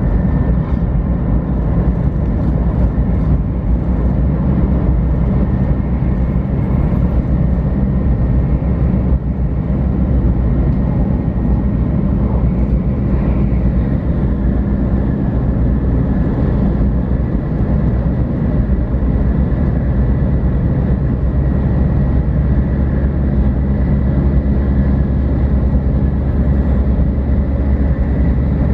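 Inside a JR West 500 series Shinkansen running at a steady speed: a loud, even rumble of the train in motion, with a faint steady high tone above it.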